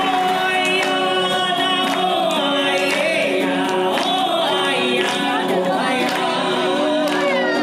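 A slow song: a singing voice carrying a drawn-out, wavering melody over sustained instrumental accompaniment.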